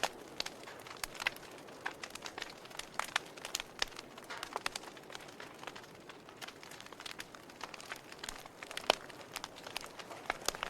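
Campfire crackling: a low steady hiss of burning wood with irregular sharp pops and snaps, one louder pop about nine seconds in.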